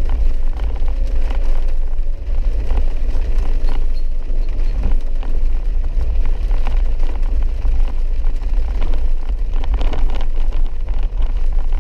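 Four-wheel-drive vehicle driving a rough, wet dirt road: a steady low rumble of engine and tyres with frequent short knocks and rattles.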